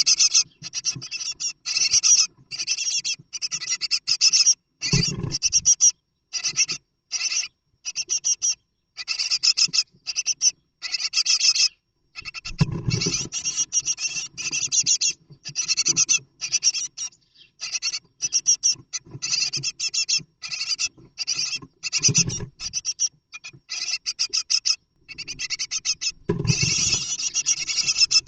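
Rapid, raspy scratching and hissing in short bursts from inside a great tit nest box. The birds' movement in the box gives a few dull thumps, about five in all.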